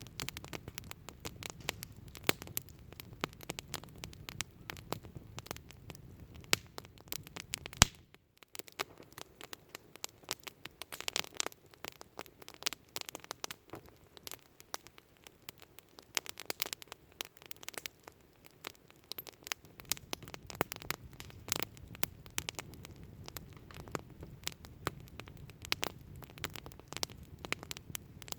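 Wood campfire crackling, with irregular sharp pops and snaps. A low hum sits under it, drops out briefly about eight seconds in, and returns about twenty seconds in.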